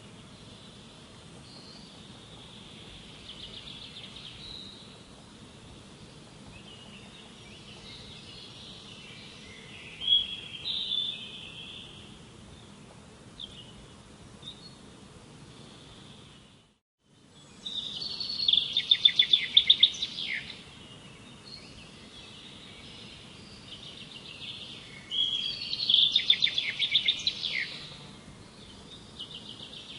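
Songbirds singing over a steady outdoor hiss: softer scattered phrases, then a brief moment of silence near the middle, followed by two loud, rapid trilled songs about six seconds apart.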